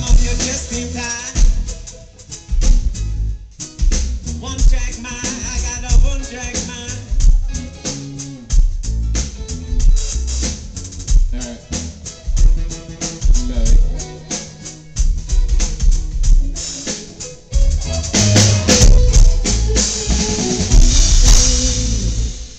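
Live rock band playing loud amplified music with a steady drum beat and cymbals, some sung lines in the first few seconds, building to a loud cymbal-heavy ending that stops just before the end.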